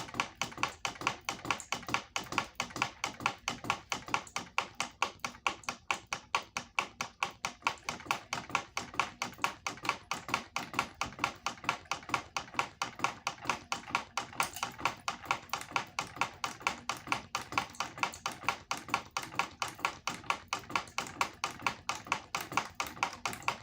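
Hampton Bay Littleton ceiling fan running with a broken blade, three blades left, making an even rhythmic ticking about four times a second.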